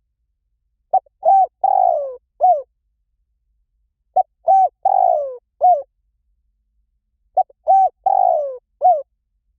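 Spotted dove cooing: three phrases about three seconds apart, each a quick short note followed by three coos, the longer ones falling in pitch. It is a recorded call of the 'หลิ่วตัน' cooing style, played to draw a captive dove to coo back.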